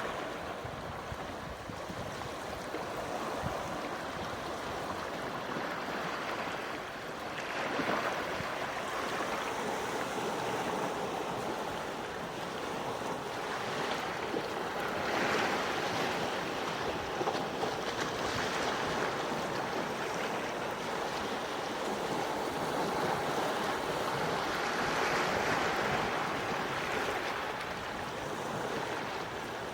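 Gentle sea waves washing onto the shore, a steady wash that swells softly every few seconds.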